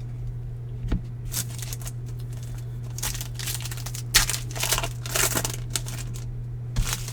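Foil baseball card pack wrappers being torn open and crinkled, with the cards handled, in several short rustling bursts and a couple of sharp clicks, over a steady low hum.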